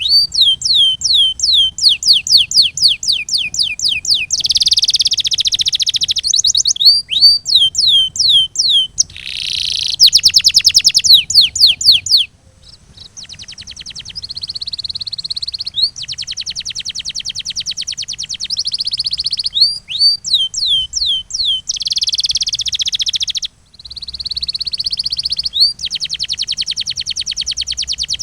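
Canary singing a long, loud song: rapid rolling trills alternating with series of repeated downward-sweeping whistled notes, changing phrase every second or two. The song breaks off briefly twice, about twelve seconds in and again near the last third.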